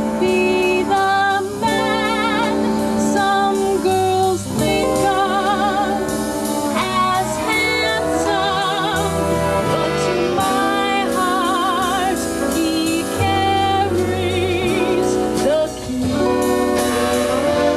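Swing band music with a woman singing, her held notes wavering with vibrato over a steady bass line.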